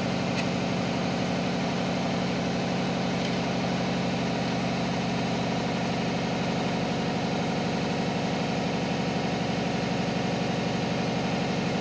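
Piston air compressor running steadily, a continuous hum with a fast, even pulse, supplying shop air for a cylinder leak-down test.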